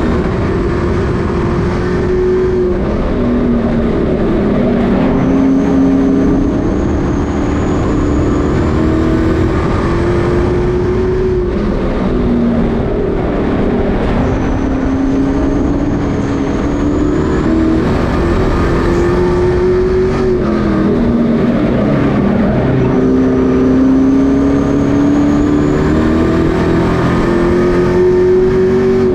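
Pro Truck racing trucks running laps on a short oval, a pack of engines heard together. Their pitch climbs as they accelerate down the straights and drops as they lift for the turns, over and over, with a thin high whine that rises along with each acceleration.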